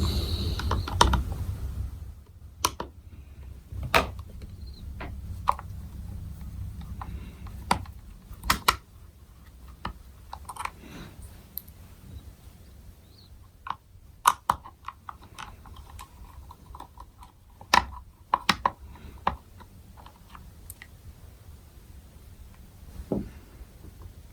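Irregular small clicks and taps, a few seconds apart, of a small Phillips screwdriver and fingers working the tiny screws and plastic rear flap of a Shoei X-14 motorcycle helmet as the flap is unscrewed.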